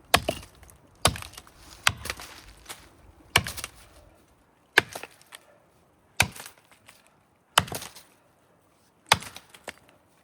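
Axe chopping into a standing maple's trunk to cut the undercut: about eight hard strikes, roughly one every second and a half, each followed by smaller cracks as the wood splits away.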